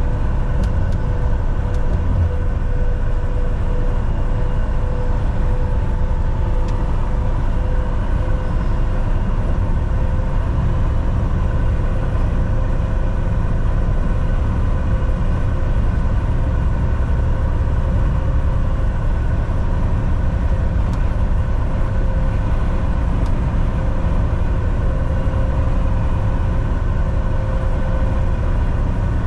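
Volvo VNL 760 semi truck cruising at steady speed on a highway: an even diesel engine drone and road rumble, with a few faint steady higher tones over it.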